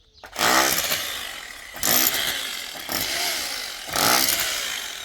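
A small engine revved in about five short bursts, each rising sharply and then dying back, the last one brief and cut off just after the end.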